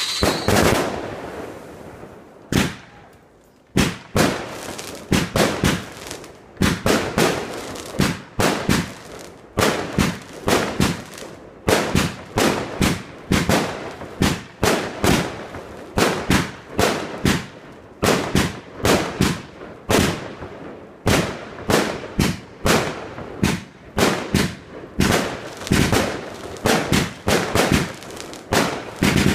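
Fireworks display: after a fading tail, aerial shells start bursting about two and a half seconds in and keep going in quick succession, sharp bangs one to three a second, each with a short echoing tail.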